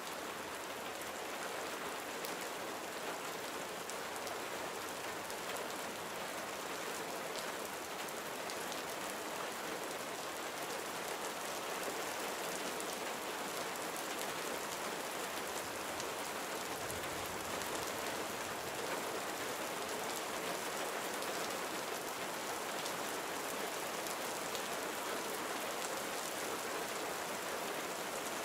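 Gentle steady rain falling on surfaces, with a continuous patter and scattered individual drops ticking.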